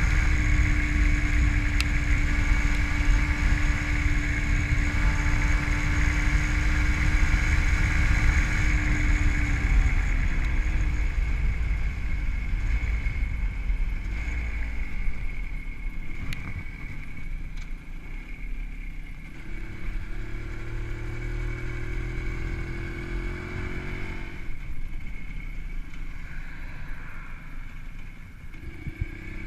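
WSK 125 single-cylinder two-stroke motorcycle engine, fitted with a Dellorto PHBG carburettor and CDI ignition, running under way as heard from the rider's seat, with wind rushing on the microphone. The engine note holds steady for about the first ten seconds, then drops away as the throttle closes, and rises in pitch again twice in the second half.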